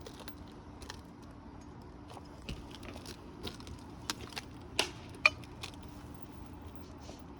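Roofing nails and hand tools being handled on an asphalt shingle roof: scattered small clicks and taps, with one sharper click a little past the middle, over a faint steady hum.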